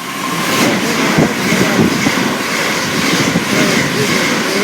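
Class 379 Electrostar electric multiple unit passing through the station at speed, a loud rush of wheels on rail with a steady high whine and a few knocks from the wheels.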